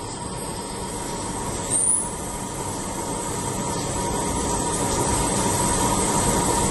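CNC machining centre running: a steady mechanical whirring hiss with a faint steady whine, growing slowly louder, and a short rising high whistle about two seconds in.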